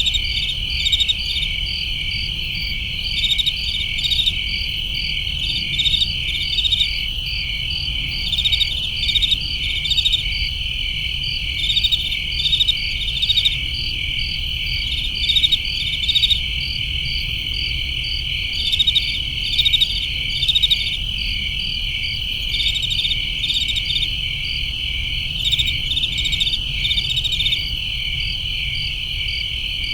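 Crickets chirping in a chorus: a steady high trill with quick pulsed chirps repeating over it, and a low rumble underneath.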